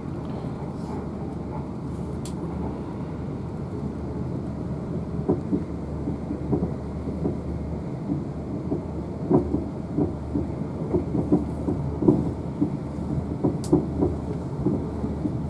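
Interior running noise of a South Western Railway Desiro electric multiple unit at speed: a steady low rumble, with a quick irregular clatter of the wheels over the track that sets in about five seconds in and grows busier.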